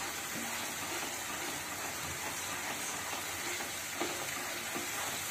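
Onion paste and ginger-garlic paste sizzling in hot oil in a non-stick pan, being fried until the oil separates, while a wooden spatula stirs and scrapes through it. There is a steady frying hiss with a few soft scrapes of the spatula.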